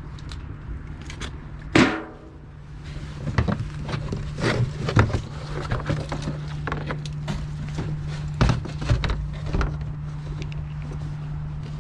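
Campfire and firewood being handled: a sharp knock with a brief ringing tail about two seconds in, then scattered crackles, snaps and knocks over a steady low hum.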